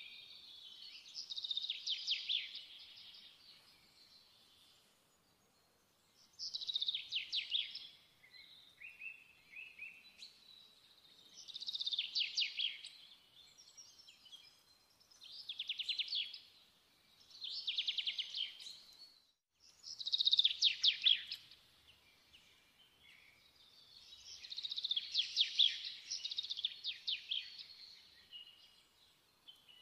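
A songbird singing repeated high trilled phrases, each one to two seconds long, a few seconds apart.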